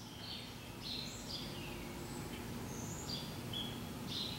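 Faint bird chirps, several short calls scattered through, over a low steady hum.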